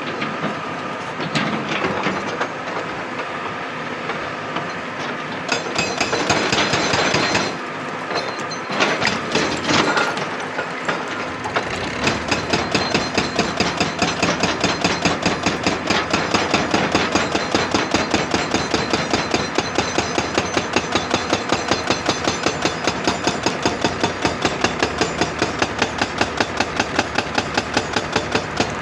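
Excavator engine running with some louder rushes of noise, then from about twelve seconds in a hydraulic breaker hammering rock in a steady, rapid rhythm of about five blows a second.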